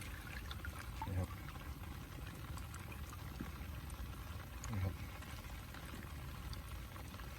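Water pouring steadily as it drains out of a flooded rice paddy, with a short spoken word twice.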